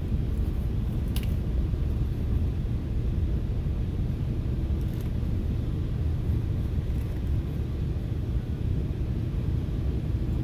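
Steady low rumble inside a FrontRunner commuter rail passenger car as the train runs, with a faint tick about a second in.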